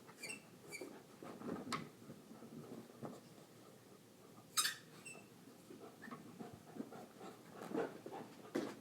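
Puppy moving about and playing with a squeaky toy: a few short high squeaks, soft rustling and knocks, and one sharp click about halfway through.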